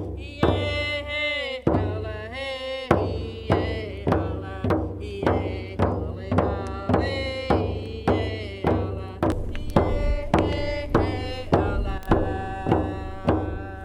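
Chant sung to a steady drumbeat, a little under two beats a second, with one voice sliding between held notes.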